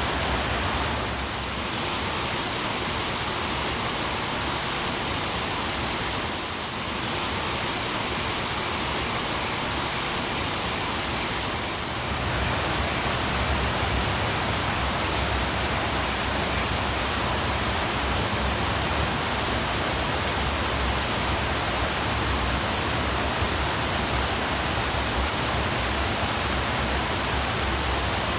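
Steady rush of a waterfall, dipping slightly in level three times in the first twelve seconds.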